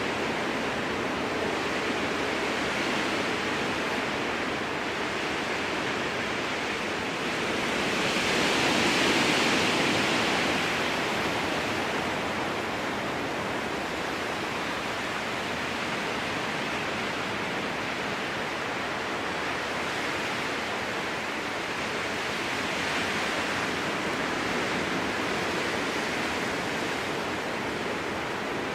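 Strong wind blowing through spruce forest: a steady rushing that swells into a louder gust about eight seconds in and dies back, with a smaller swell later on.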